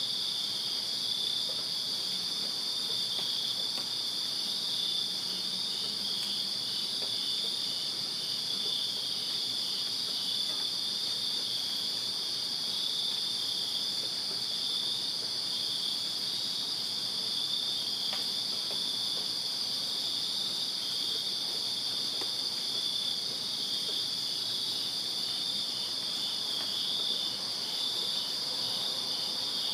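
Crickets chirping in a steady night chorus: one continuous high trill, with a second group pulsing in an even rhythm just below it.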